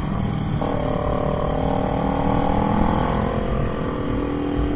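Motorcycle engine running under way over a dense low rumble of wind and road noise. Its note picks up about half a second in, climbs gently, then eases off near the end.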